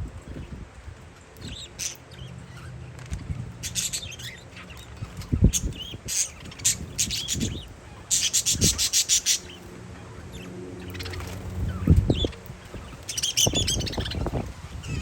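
Parakeets chirping in scattered bursts, with a fast run of chirps about eight seconds in. Wind thumps on the microphone now and then.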